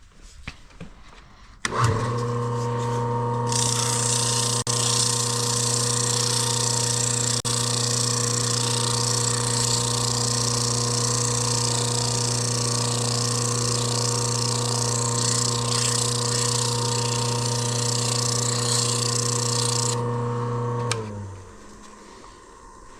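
Pressure washer's electric motor switched on, running with a steady hum while emery paper held to its spinning bare shaft makes a hissing scrape, polishing it so the pump will slide on. The scraping stops about 20 seconds in, and a second later the motor is switched off and winds down.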